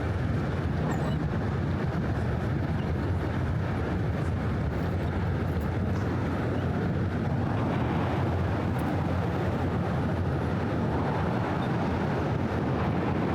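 Steady hum and rush of road traffic on the Brooklyn Bridge, an even noise heavy in the low end with no single vehicle standing out.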